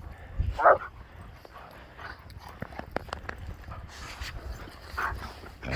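A dog barks once, loudly, about half a second in, with fainter short yips about five seconds in, over a steady low rumble.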